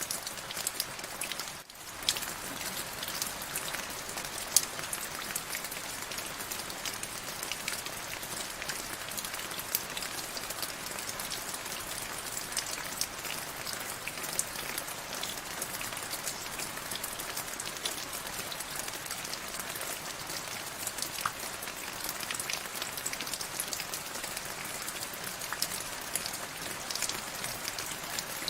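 Steady rainfall: a dense hiss of raindrops with many small individual drop ticks, briefly dipping in level about two seconds in.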